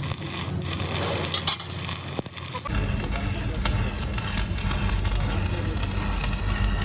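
Electric arc welding crackling and sizzling steadily, part of the repair of a cracked excavator boom. About two and a half seconds in, a low machine hum starts abruptly underneath.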